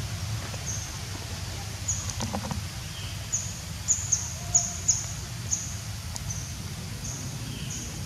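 A small bird chirping over and over, short high falling chirps about two a second, loudest around the middle, over a steady low outdoor rumble.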